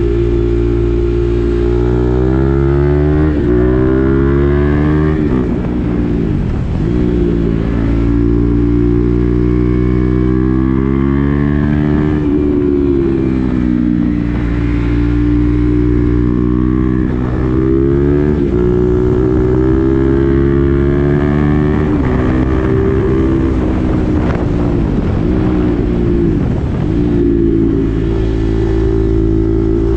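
KTM Duke 390's single-cylinder engine running through an SC-Project aftermarket exhaust with the dB-killer fitted, on the move. Its pitch climbs under acceleration and drops back again several times, as the rider shifts up or rolls off the throttle.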